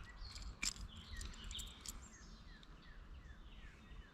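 A small bird singing faintly: a run of about seven short, falling notes, evenly spaced. A few faint clicks come in the first couple of seconds.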